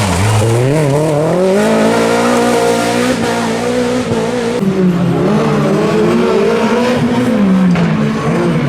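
Renault Clio rally car's engine at high revs. The note drops sharply at the start, climbs over the next two seconds and holds high, then dips and rises again near the end.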